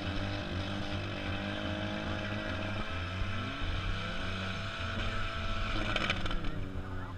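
Several demolition-derby car engines running and revving, their pitches rising and falling against one another. A brief harsh burst of noise comes about six seconds in.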